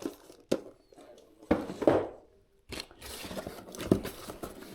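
Packaging being handled and torn open: a sharp click, then bursts of crinkling and tearing, with a longer rustle in the second half.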